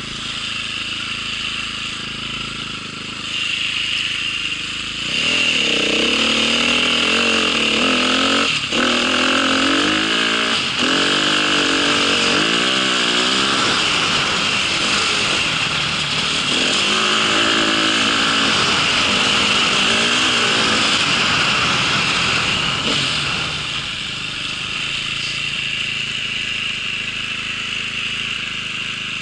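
Vehicle engine running, its pitch rising and falling with the revs from about five seconds in until near the end, over a steady high hiss.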